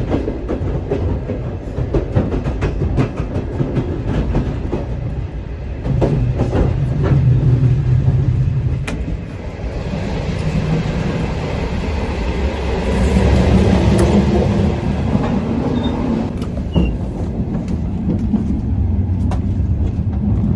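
Passenger sleeper train running on the rails: a steady low rumble with scattered sharp clicks and clatter from the wheels over the track, swelling louder in places.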